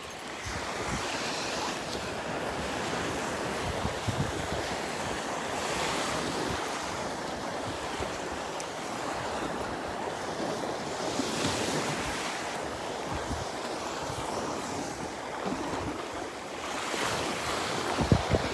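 Small Gulf of Mexico waves washing onto a sandy beach, swelling about every five seconds, with wind buffeting the microphone.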